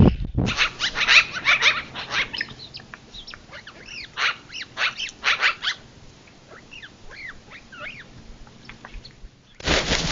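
Wild animals calling: many short yelping calls that rise and fall quickly in pitch, densest in the first two seconds and again around four to five seconds, thinning out after that.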